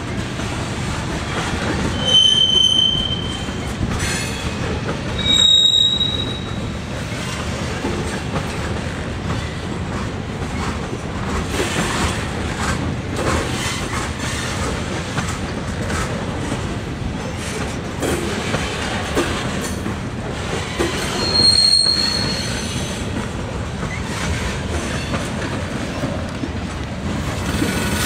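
Freight train of covered hopper cars rolling past, its wheels clattering steadily over the rail joints. Three short high-pitched wheel squeals stand out: about two seconds in, about five seconds in, and around twenty-one seconds in.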